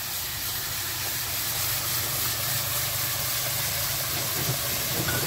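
Ginger, onion and garlic paste frying in hot oil in a steel kadhai, a steady sizzle and hiss, over a steady low hum.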